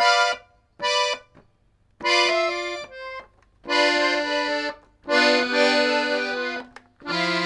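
Accordion playing: two short staccato chords, then a run of held chords and moving notes in a bluesy lick, with a low bass note coming in near the end.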